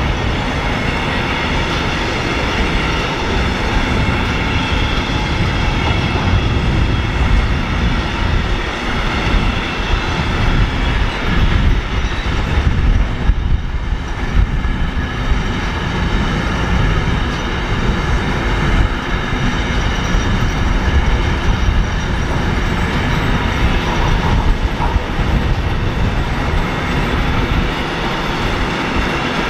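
A train rolling past close by: a continuous loud rumble of wheels on the rails with steady high ringing tones over it. The noise dips briefly about halfway through.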